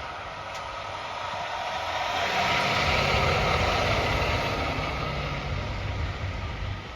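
A heavy vehicle's engine and tyres passing close by, growing louder to a peak about three seconds in and then slowly fading.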